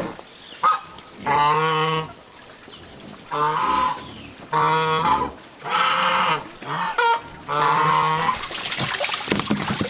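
A farm animal calling repeatedly: about five long, steady-pitched cries, each under a second, with a couple of short ones between. Near the end the calls stop and a steady hissing, splashing noise takes over.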